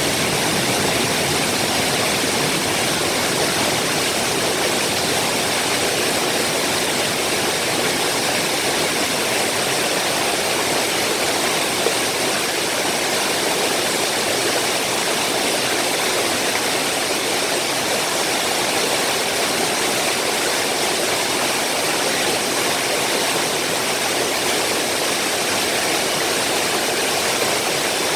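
Rain-swollen mountain waterfall crashing down, a steady, even rush of falling water.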